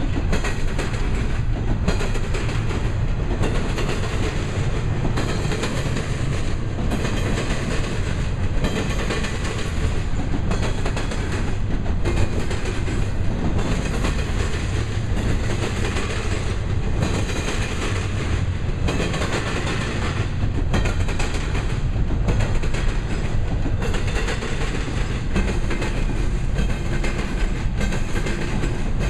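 Double-stack intermodal well cars rolling past: a steady rumble of steel wheels on rail, with repeated clickety-clack as the wheel trucks cross rail joints.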